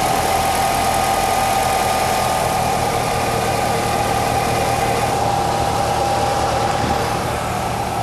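Nissan X-Trail T32 drivetrain running, with a steady drone and a high whine through it that eases off about five seconds in. The drone is the hum the mechanic traces to a worn right wheel hub bearing.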